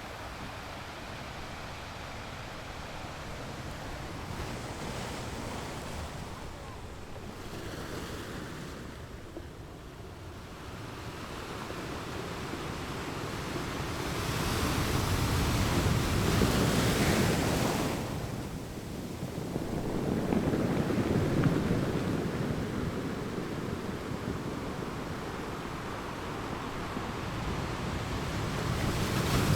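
Ocean waves breaking on a beach, a steady wash that swells and recedes. The loudest surge comes about halfway through, another follows shortly after, and a third builds near the end.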